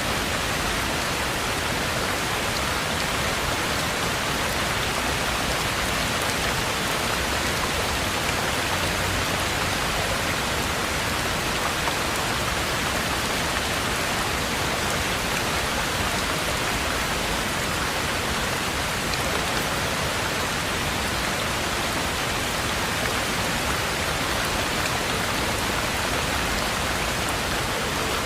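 Heavy rain falling steadily, an even hiss that doesn't rise or fall.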